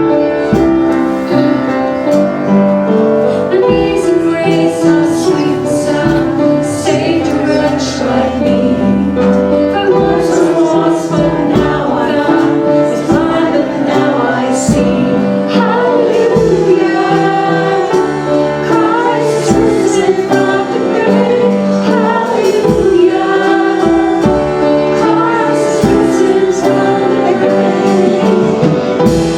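Live worship song: voices singing, a woman's voice among them, over keyboard and a steady drum beat.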